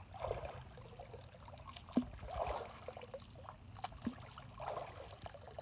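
River water splashing and trickling, in surges about every two seconds, with a couple of sharp knocks.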